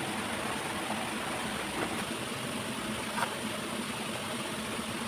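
Steady rush of a waterfall, with two faint brief clicks in the middle.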